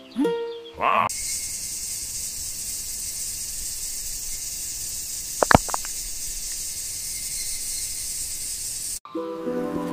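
Steady high hiss of falling water, like light rain on leaves, with a few quick drip-like clicks about halfway through. It cuts off sharply near the end.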